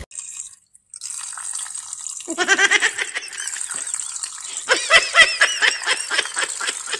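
Tap water running in a steady stream, with a person laughing in quick high-pitched bursts from about two seconds in and again about five seconds in.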